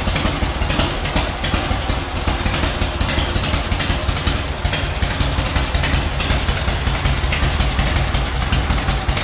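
Harley-Davidson FXSTS Springer Softail's 1340 cc V-twin engine idling steadily.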